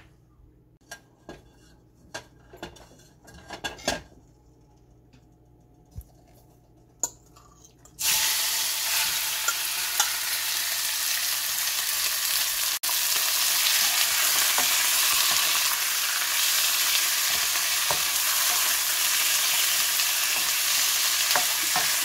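Raw chicken strips frying in hot oil in a nonstick wok: a loud, steady sizzle that starts suddenly about a third of the way in, after a quiet stretch with a few light clicks and knocks. Near the end the strips are stirred with a silicone spatula.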